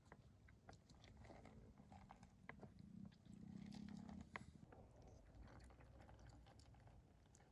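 Faint campfire crackling: irregular small snaps and clicks from burning wood and coals. A brief low hum comes in about three seconds in.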